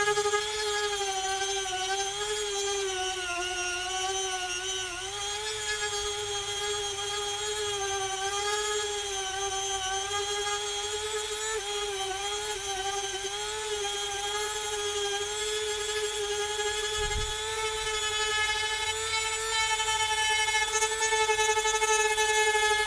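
WEN rotary tool with a diamond disc grinding down high spots of cured silicone: a steady high-pitched whine whose pitch wavers and dips slightly as the disc bites, growing louder toward the end.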